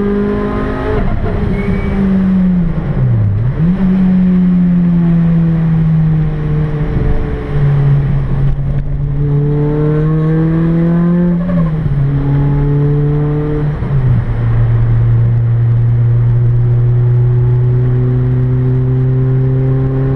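Toyota Celica's 2ZZ-GE four-cylinder engine with a Rotrex C30 supercharger, heard from inside the cabin, driven hard on track. The engine note dips sharply about three seconds in and picks up again. It then climbs and drops suddenly several times as the driver shifts up through the gears, under a steady hiss of road noise.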